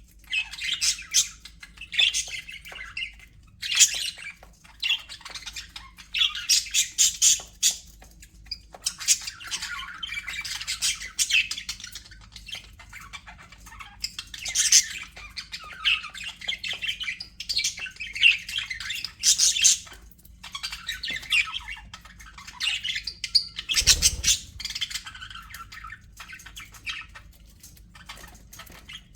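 A flock of budgerigars chattering, with overlapping warbles, chirps and squawks in quick bursts and brief pauses. One louder, harsher squawk comes late on.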